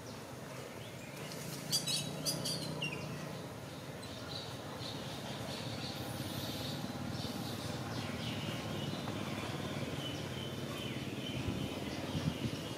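Outdoor ambience with birds: a few short, high chirps about two seconds in, then a faint steady high note over low background noise.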